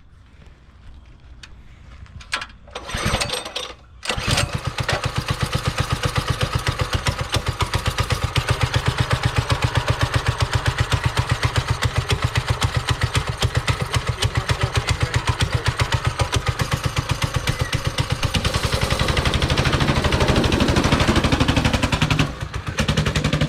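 Mini bike's Predator single-cylinder four-stroke engine being started: a brief start attempt, then it catches about four seconds in and runs with a steady, even firing beat. It revs somewhat higher in the last few seconds and falters near the end, as the engine keeps shutting off; it is thought to need to warm up.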